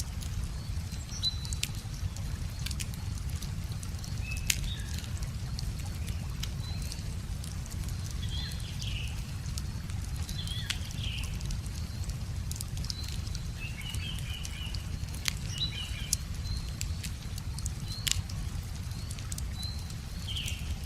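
A wood fire crackling with scattered sharp pops over a low, steady rush of river water. Small birds chirp in short phrases every few seconds.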